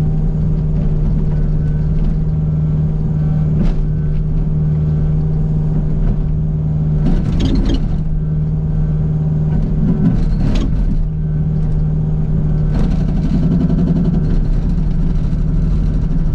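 Kubota U55 mini excavator's diesel engine running steadily under load, with the Agrotk 680 hydraulic breaker hammering rock in a few short spells of rapid blows; the longest spell comes late on.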